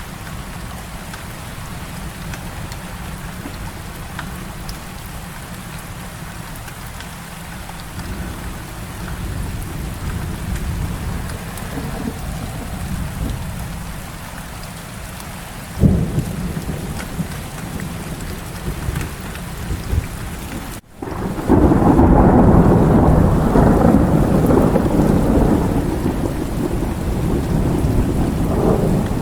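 Heavy rain falling steadily, with a sharp crack of thunder about halfway through. After a brief break in the sound, a loud thunder rumble follows and carries on over the rain to the end.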